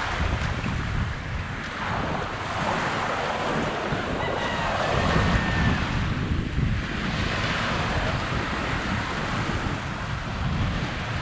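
Small waves washing onto a sandy beach, the surf swelling and easing every few seconds, with wind buffeting the microphone.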